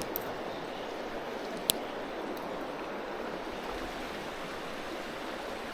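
Creek water running in a steady rush. One sharp click about two seconds in.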